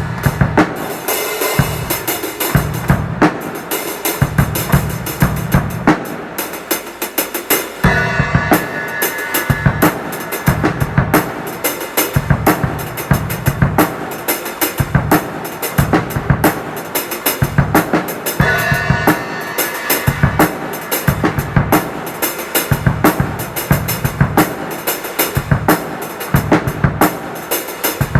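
A poor-quality drum kit played in a steady groove, with bass drum and snare hits driving a regular beat and cymbals ringing over it, broken by fills.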